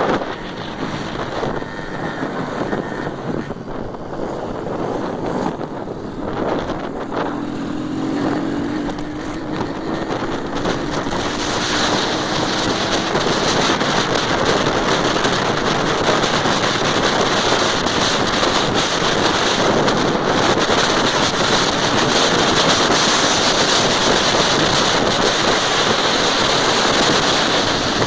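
Heavy wind buffeting the microphone, growing louder and brighter about a third of the way in, with a faint engine note rising slowly in pitch around the middle.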